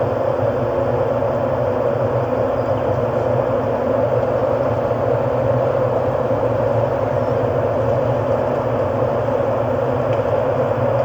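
Steady ambient electronic drone: a dense, unchanging noisy hum with no beat or melody.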